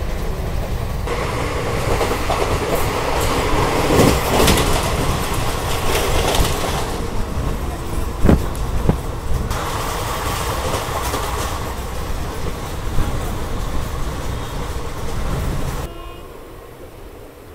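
Passenger train running at speed, heard from an open coach door: a steady rumble of wheels on the rails with clattering and a few sharp knocks over rail joints. Near the end the sound drops suddenly to a much quieter train running sound.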